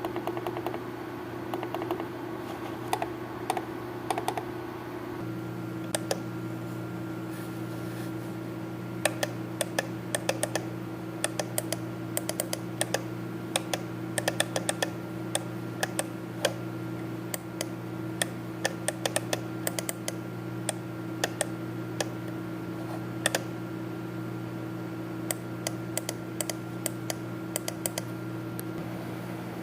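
Typing on a computer keyboard: irregular keystrokes, sparse for the first few seconds and then in quick runs. A steady low hum sits under it.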